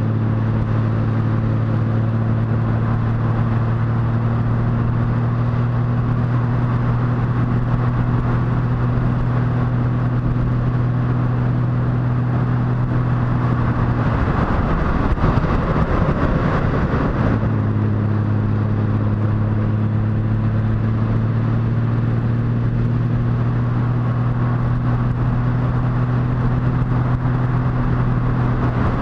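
Motorcycle engine running at a steady cruising speed, one even note under a constant rush of wind and road noise. About halfway through, the engine note drops out for a few seconds under louder rushing noise, then returns steady.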